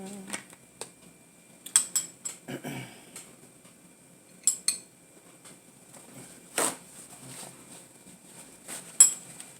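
A utensil stirring a thick egg and cheese mixture in a bowl, clinking against the bowl in scattered sharp strikes. The loudest clink comes near the end.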